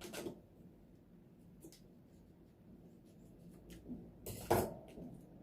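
Small clicks and scratchy rustles of a white-milk topping container being opened by hand, with one louder crackle about four and a half seconds in.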